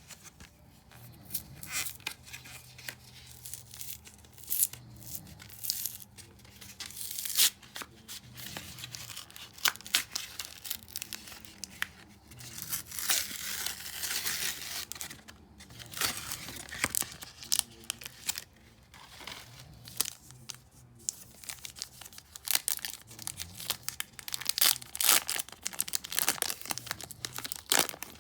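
Foil Yu-Gi-Oh booster pack wrappers being torn open and crinkled by hand, in irregular crackling bursts with sharp clicks.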